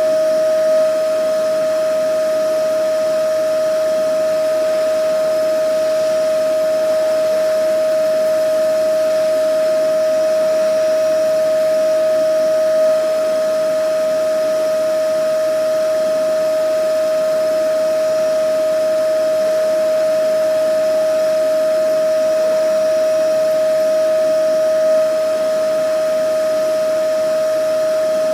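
Vacuum cleaner running steadily: a constant motor whine over the hiss of rushing air, with a slight swell in level about every twelve seconds.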